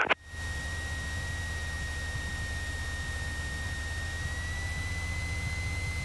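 Cessna 172's piston engine running steadily as a low, even drone inside the cabin, over a hiss. A thin high whine runs along with it and rises slightly about four seconds in.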